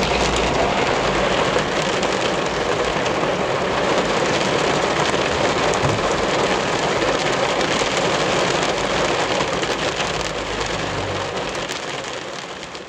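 Heavy rain and road spray hitting a moving car, heard from inside the car: a steady, dense hiss that fades out over the last few seconds.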